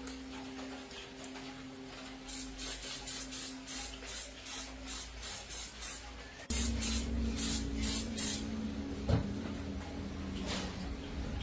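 Short bursts of spray hiss, about three a second, in two runs over a low steady hum, followed by a single knock.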